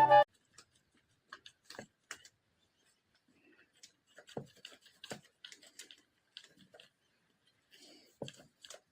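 Faint, irregular small clicks and taps in a quiet room, with a brass-and-drums music track cutting off at the very start.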